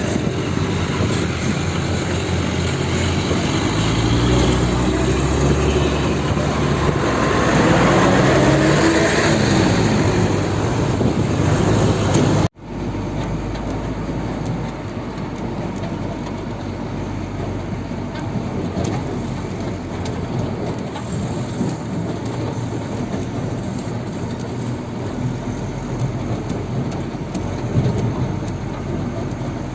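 Heavy diesel engine running and revving, its pitch rising and falling, cut off suddenly about twelve seconds in; after that a steady rumbling engine noise.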